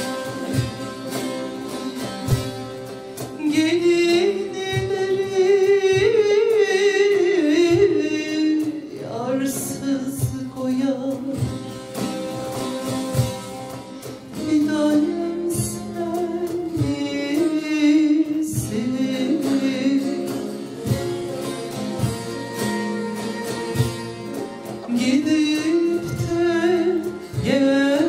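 Turkish folk music performed live: a voice sings a wavering melody line over plucked string instruments.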